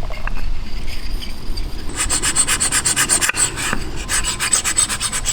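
SU carburettor piston being worked back and forth inside its suction chamber with Brasso, a fast rhythmic metal-on-metal rubbing of about seven strokes a second that starts about two seconds in. The fine polish is lapping a piston that had been sticking so that it drops freely.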